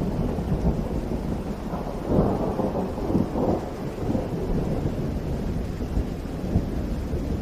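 Steady rain with a low rolling rumble of thunder that swells about two seconds in and then eases back.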